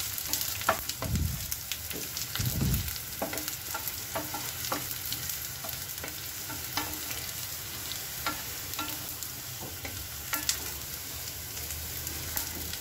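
Mustard seeds, dal, green chillies and ginger sizzling in hot oil in a stainless steel pan as a wooden spatula stirs them, with many small scattered crackles and clicks. Two dull low thumps come about one and two and a half seconds in.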